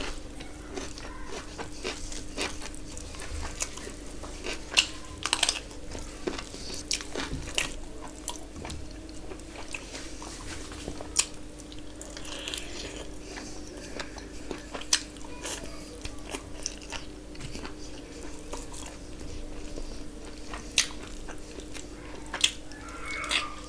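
Close-miked eating sounds: irregular wet clicks and smacks of someone chewing and biting spiced chicken and rice, over a faint steady hum.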